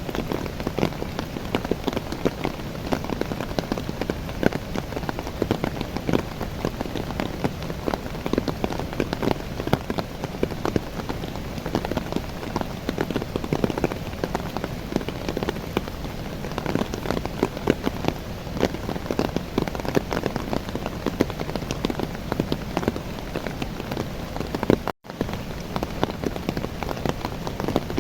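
Steady heavy rain falling on young coffee plants, many drops pattering on the leaves. The sound cuts out for an instant near the end.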